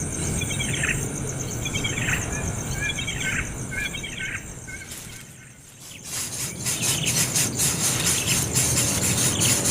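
A bird chirping, short falling calls about once a second, over a steady high insect drone. About six seconds in, music takes over.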